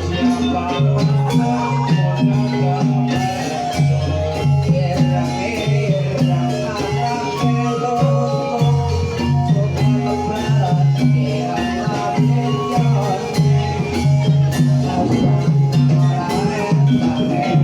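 Gamelan music accompanying an ebeg dance: keyed percussion playing melody over a repeating low bass pattern, with sharp drum and rattle strokes.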